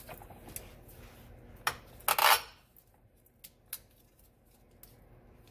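Loose metal parts being handled: scattered light clinks, with one louder metal clatter about two seconds in.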